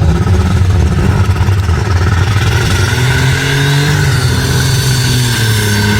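A competition pulling vehicle's engine runs loud and rough, then from about halfway its pitch climbs and holds at a higher steady speed as it revs up.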